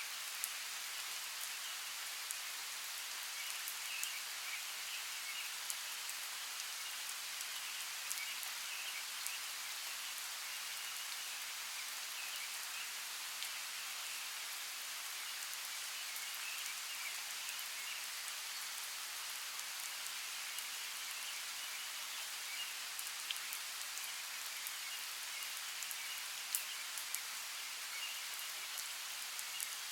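Steady rainforest rain falling, with scattered sharper drop ticks standing out now and then. Underneath runs a faint, high, continuous chirring.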